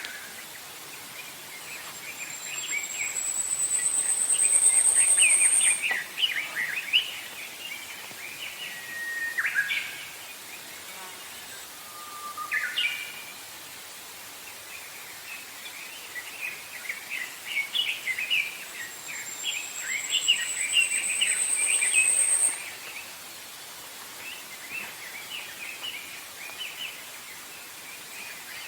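Songbirds singing in a forest: clusters of quick twittering chirps and a few single calls. Twice, a long, high, thin note rises and grows louder over about three seconds, over a steady faint hiss of outdoor ambience.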